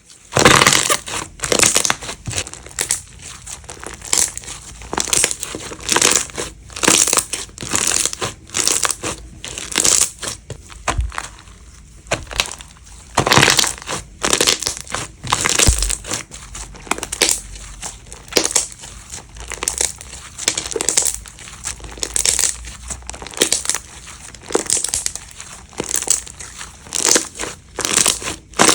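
Slime being squeezed and pressed by hand, crackling and crinkling in repeated bursts about one to two a second.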